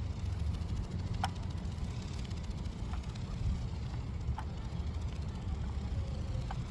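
Steady low rumble, typical of wind on the microphone outdoors, with a few faint clicks.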